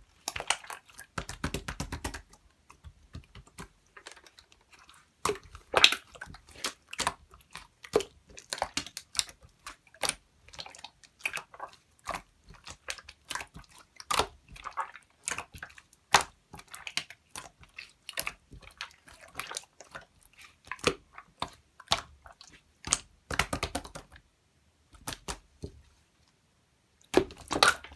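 Clear slime being squished and pressed by hand, giving a quick, irregular run of sticky clicks and small pops with brief pauses.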